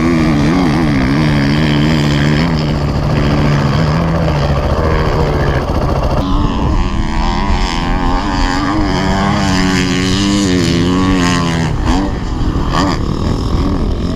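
Dirt bike engine running and revving, its pitch rising and falling with the throttle, with an abrupt change in the sound about six seconds in.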